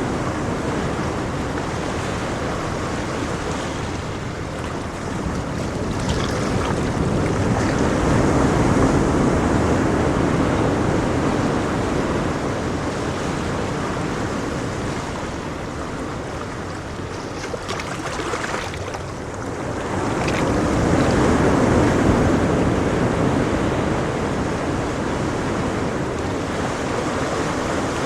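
Ocean waves washing onto a shore, a steady surf with two slow swells in loudness as waves break, one about a third of the way in and one about three-quarters through.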